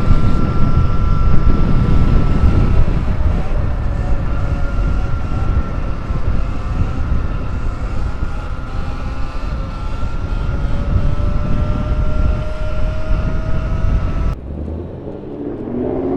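Electric dirt bike riding along: wind buffeting the microphone over a thin electric motor whine that slowly rises in pitch. The sound changes abruptly near the end.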